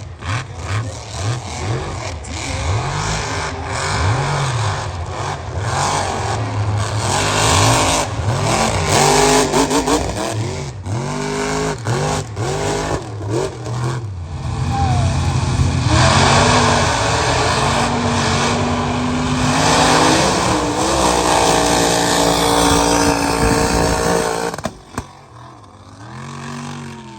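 Mega mud truck engines revving hard, the pitch swinging up and down again and again, then held high for several seconds before dropping away suddenly near the end.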